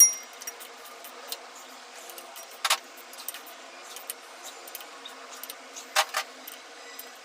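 Sharp metallic clinks of metal parts or tools knocking together: a loud one at the start, others about 2.7 and 6 seconds in, and lighter ticks between, over a steady hum.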